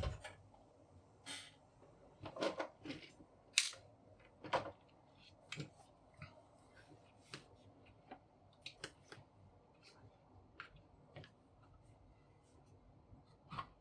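Irregular light clicks and taps, a dozen or so spread out, of small plastic and metal parts being handled while a paper laminator is taken apart.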